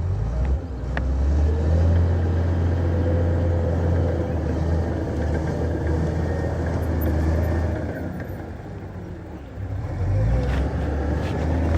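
Heavy earthmoving machine's diesel engine running under load with a deep steady drone. It eases off about eight seconds in and picks up again near the end.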